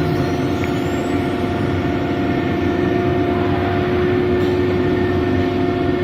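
ATC 1325 CNC wood router running: a steady machine whine with several constant tones over a continuous noise.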